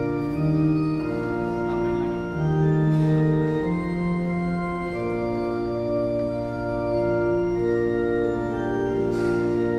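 Church organ playing the hymn tune in held chords, the notes changing every second or so.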